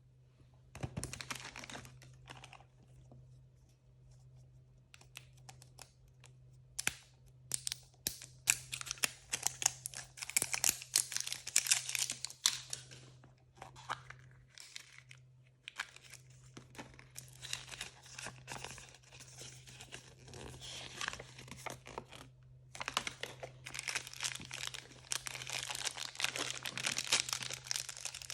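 Blind-bag packaging being crinkled and torn open by hand, in irregular bursts of crackling and rustling with short pauses between, over a steady low hum.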